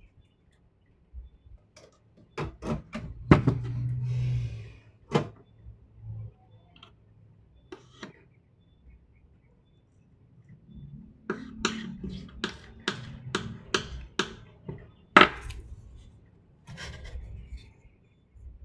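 Hard parts being handled on a workbench: two clusters of sharp clicks and knocks, with rubbing and scraping between them. The second cluster is a fairly even run of about two to three clicks a second.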